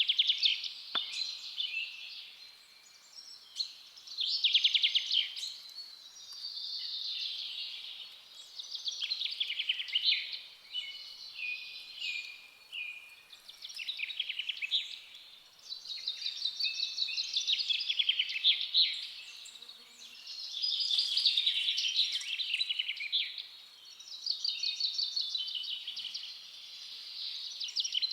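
Songbirds singing in a forest: fast trilled song phrases, each lasting a few seconds, repeated with short pauses between them.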